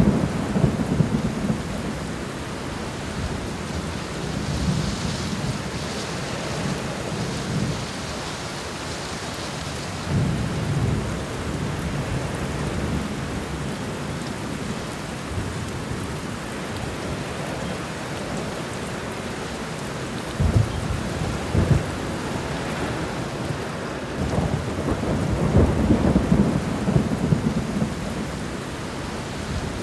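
Thunderstorm: steady heavy rain with rolls of thunder rumbling several times, strongest at the start and again about three-quarters of the way through, with a couple of sharper cracks in between.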